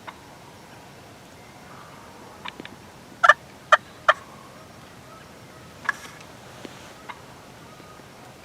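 Wild turkey gobbling: a quick cluster of loud, sharp notes about three seconds in, with a weaker call a couple of seconds later.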